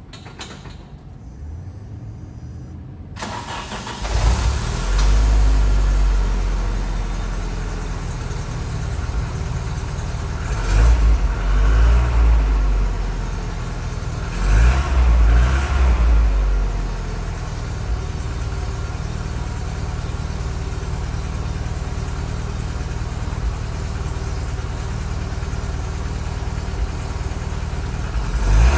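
Land Rover Defender 90's 2-litre petrol double-overhead-cam engine starting from cold after sitting for over a week. It catches about four seconds in, revs rise and fall a few times, then it settles to a steady idle.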